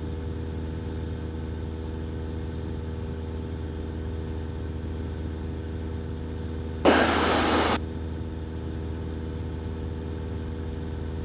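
Cessna 172 engine and propeller droning steadily in cruise, heard through the cockpit intercom. About seven seconds in, a loud burst of hiss lasting just under a second cuts in over it.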